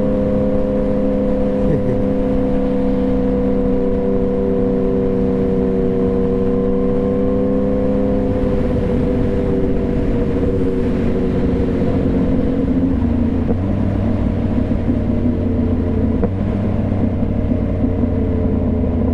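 2015 Yamaha FZ-09's three-cylinder engine running steadily under way, with wind and road noise on the helmet mic. About halfway through the engine note sags slightly lower and a deeper rumble comes in.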